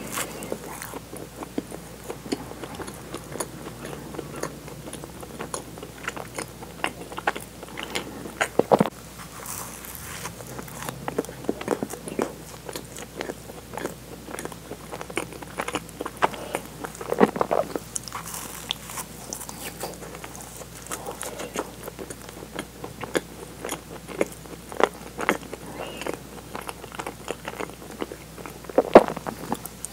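Close-miked biting and chewing of soft, sugar-dusted doughnuts filled with cream and sweet bean paste: a steady stream of wet mouth clicks and chewing, with a few louder clicks spread through.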